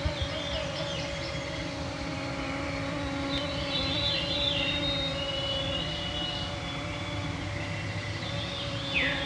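A cloud of mosquitoes whining close to the microphones, their steady wavering hum running throughout, while faint birdsong sounds above it: a run of descending notes a few seconds in, and a quick falling note near the end.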